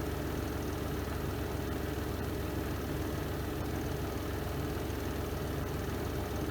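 Spin drum of a Renova semi-automatic twin-tub washing machine, running steadily in its spin cycle with an even, low hum.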